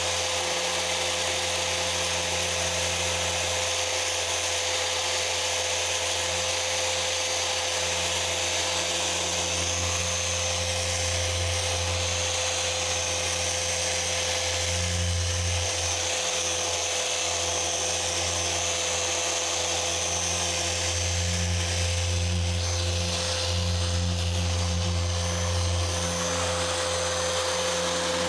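An electric orbital paint polisher running steadily while machine-polishing car paint. It gives a constant whine over a low hum that grows louder at times as the pad is worked over the panel.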